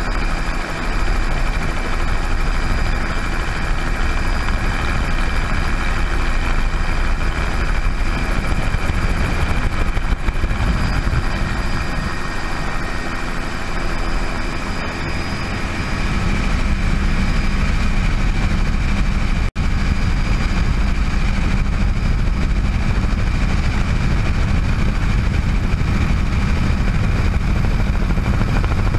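Bell 206 JetRanger helicopter running: steady high turbine whine from its Allison 250 turboshaft over dense low rotor noise. The low rumble gets stronger about halfway through, and the sound drops out for an instant about twenty seconds in.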